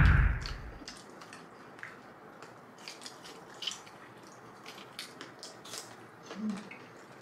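A deep thud that fades out within the first second, then faint eating sounds: scattered small clicks and crunches of chewing.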